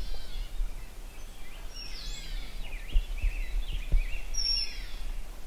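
Birds calling in the background, many short high notes that rise and fall, over a steady low rumble of wind on the microphone, with a couple of soft low knocks around the middle.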